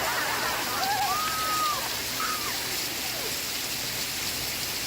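Steady, dense rain noise, with faint sounds from a TV programme underneath.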